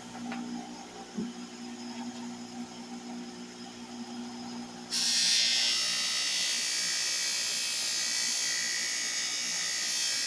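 A small electric motor whirs steadily. About five seconds in, the sound cuts to a louder, steady hiss of spraying.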